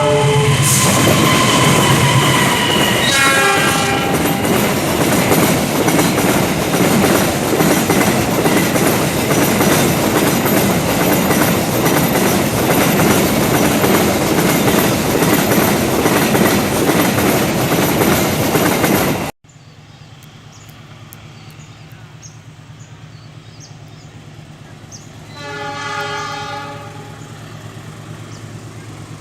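A train passing at speed: a loud, steady rush of wheels and carriages, with two horn blasts near the start. About two-thirds through, the sound cuts suddenly to a much quieter background, and a fainter horn blast sounds once more.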